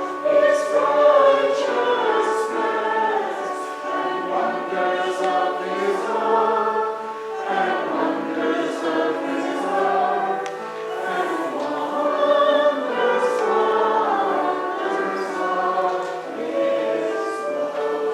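Church choir singing a Christmas piece with words, many voices together.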